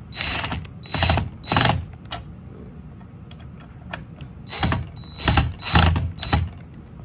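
Cordless drill driving screws in short trigger bursts: three quick bursts at the start, then about four more after a pause, each with a brief motor-and-gear whine. The screws fasten a plastic guard, so they are run in gently rather than at full power.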